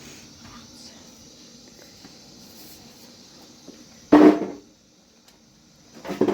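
A loud single knock about four seconds in that dies away within half a second, and a second, smaller knock near the end, over a faint steady background.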